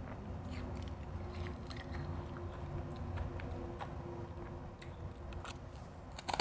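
Close-miked chewing of refrozen crushed ice: a steady low rumble with scattered small crackly crunches, and a sharp, loud crunch at the very end.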